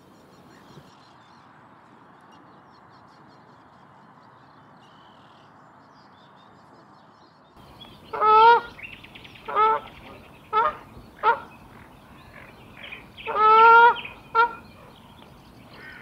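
A large bird giving loud honking calls, six in all, starting about halfway in, with the first and fifth calls longer than the rest. Before the calls there is only a faint steady hiss.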